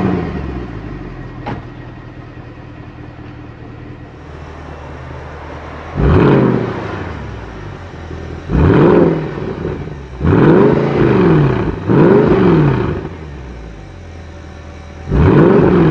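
Mercedes CLK63 AMG Black Series's 6.2-litre V8 idling and being revved in short blips, five times, each one rising in pitch and dropping back to idle; the third and fourth follow close together.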